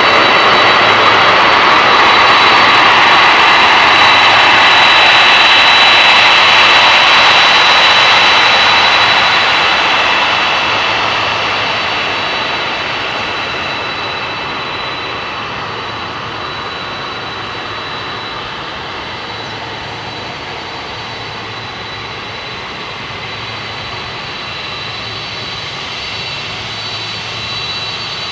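Boeing 767 jet engines running, a loud rushing noise with a steady high-pitched whine. The sound is loudest for the first several seconds, then grows fainter over about eight seconds and settles at a lower, steady level.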